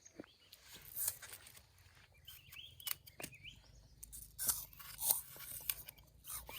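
Someone chewing crunchy food close to the microphone: irregular crisp crunches, with a few faint bird chirps in the background.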